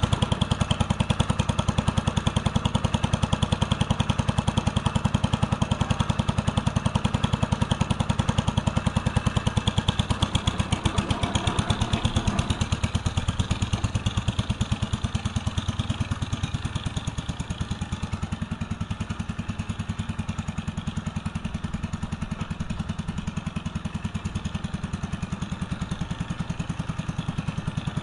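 1964 Cub Cadet 70 garden tractor engine running steadily, its rapid, even firing pulses going on throughout; the higher part of its sound fades somewhat in the second half.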